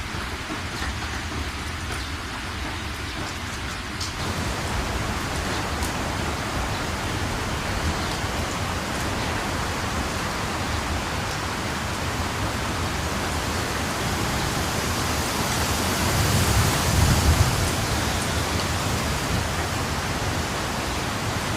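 Steady rain falling, which grows denser about four seconds in. A low rumble swells and fades about three-quarters of the way through.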